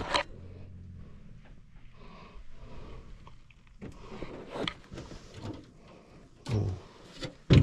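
Several short knocks and bumps from equipment being handled, with a faint low hum in the first second.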